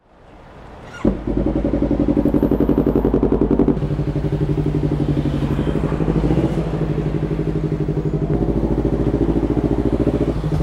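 Yamaha MT-03's parallel-twin engine catching about a second in, after a sharp click, then running steadily at low revs with an even pulsing beat.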